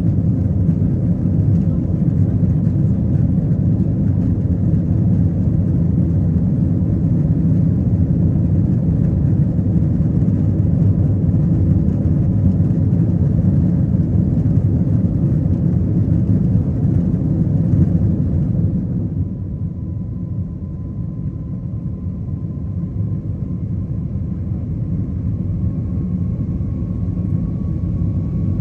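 Steady low vehicle rumble. About two-thirds of the way through it gets a little quieter and loses its hiss, and a faint thin tone comes in, rising slightly near the end.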